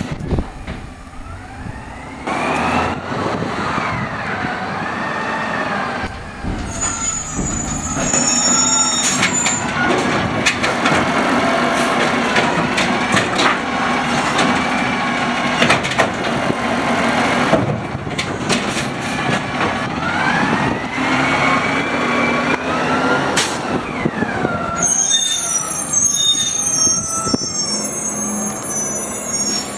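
Automated side-loader garbage truck collecting a cart, its hydraulic arm whining up and down in pitch while the natural-gas engine stays at idle (an idle-arm truck). Knocks and bangs come midway as the cart is dumped, with high squeals in between and again near the end.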